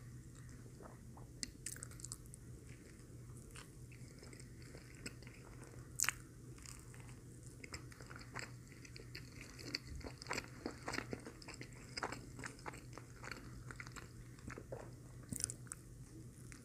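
Close-up chewing and biting of a McDonald's Filet-O-Fish sandwich dipped in ketchup, with many short wet clicks and one sharper click about six seconds in.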